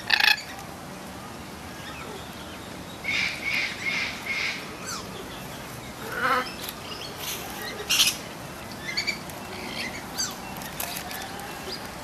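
Birds chirping and squawking in short calls: a run of about four calls about three seconds in, and scattered single calls later. A short, sharp noise right at the start is the loudest thing.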